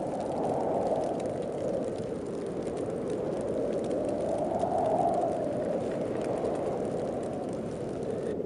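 Heavy snowstorm wind blowing, a steady low rushing that swells about a second in and again around five seconds.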